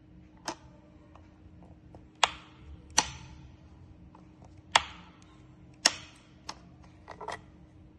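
Sharp clicks and knocks from handling the Dreame H15 Pro wet-dry vacuum, about six loud ones at irregular intervals, over a faint low steady hum.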